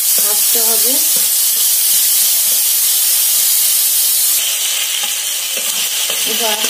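Diced pineapple sizzling steadily as it fries in ghee in a metal wok, stirred with a metal spatula. The sizzle eases slightly about four seconds in.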